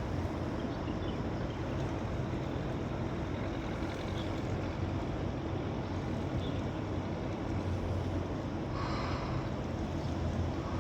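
A steady low motor-like rumble under a hiss of wind-like noise, with a few faint short high chirps and a brief brighter burst of noise about nine seconds in.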